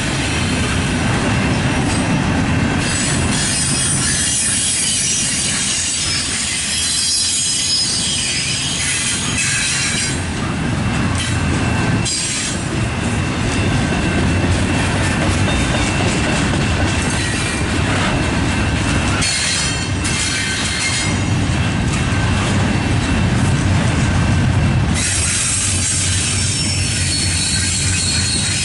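Double-stack intermodal container well cars rolling past at close range, their steel wheels rumbling steadily on the rails, with high-pitched wheel squeal coming and going.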